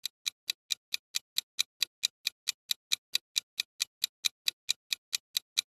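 Clock-style ticking of a countdown timer sound effect: sharp, evenly spaced ticks about four to five a second, getting louder over the first second.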